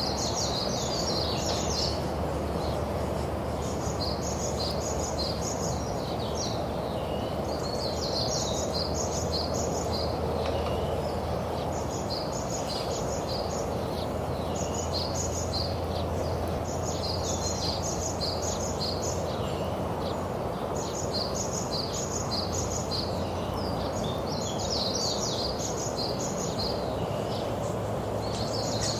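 Birds calling in clusters of short, high chirps that recur about every four seconds, over steady background noise and a low hum.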